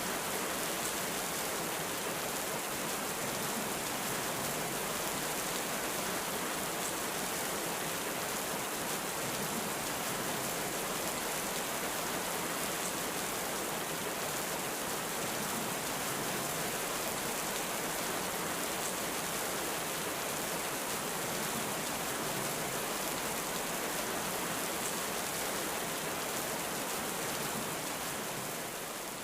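Heavy rain falling steadily, a dense, even hiss of drops with no thunder heard. It begins to fade out near the end.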